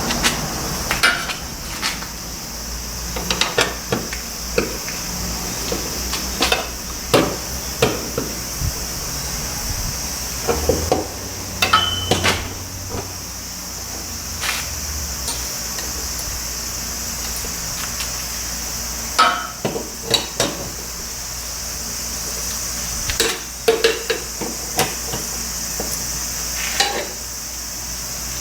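Irregular metallic clinks, taps and knocks of hand tools on metal parts, coming in scattered clusters over a steady background hiss.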